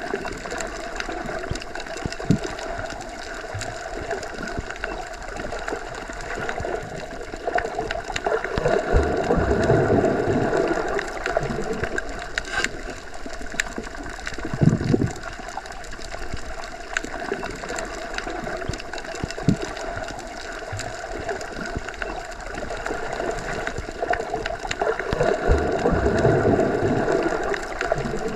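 Underwater ambience: a steady wash of water noise that swells louder twice, about a third of the way in and near the end, with occasional faint clicks and knocks.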